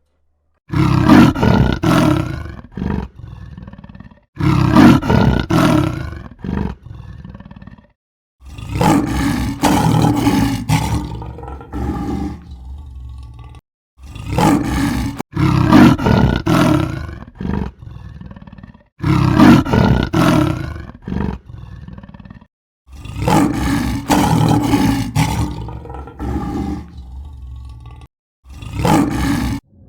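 Loud calls from a large animal, repeated seven times, each starting strong and trailing off over a few seconds, with abrupt silent cuts between them.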